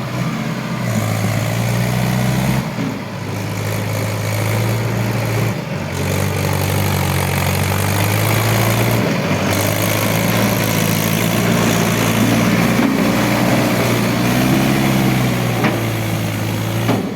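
A Mahindra tractor's diesel engine running steadily, its note shifting briefly a few times.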